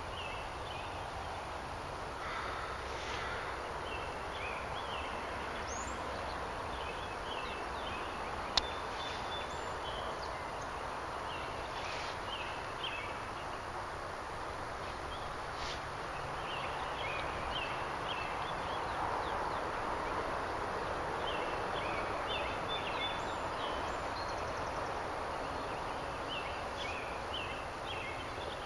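Outdoor ambience: a steady hiss with small high chirps coming in short clusters throughout, and a single sharp click about a third of the way through.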